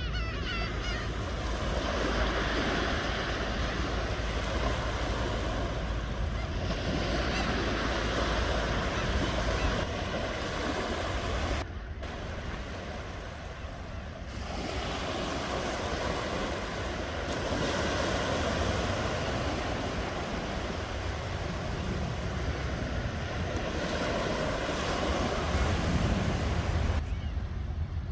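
Ocean waves breaking and washing ashore, swelling and easing in slow surges every few seconds, with a low wind rumble on the microphone underneath.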